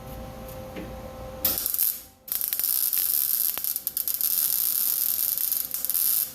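MIG welder tacking sheet-metal floor pan: a short crackling burst of arc about a second and a half in, then after a brief pause a longer run of steady crackling hiss lasting about four seconds, stopping just before the end. A low electrical hum sits under the opening second and a half.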